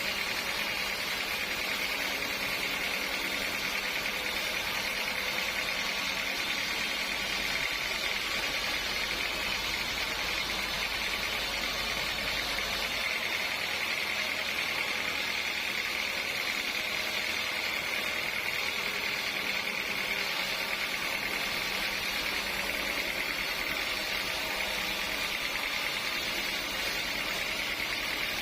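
Sawmill machinery running steadily, an even mechanical noise with a strong high hiss and no breaks or knocks.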